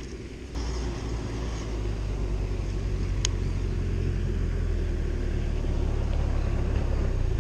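Low rumble of a motor vehicle engine running nearby, building up louder through most of the stretch and easing off near the end. A single sharp click comes about three seconds in.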